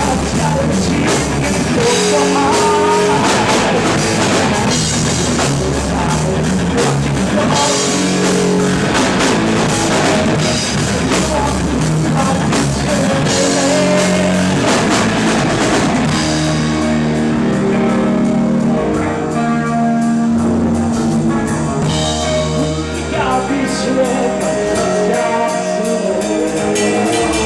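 Live rock band playing: electric guitar and drum kit over bass. A little past halfway the drums ease off and the high cymbal hiss thins out while the guitar carries on.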